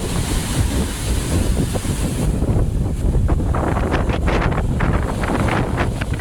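Strong sea wind buffeting the microphone, a heavy rumble, with surf washing in; rougher hissing gusts and splashes come through from about two seconds in.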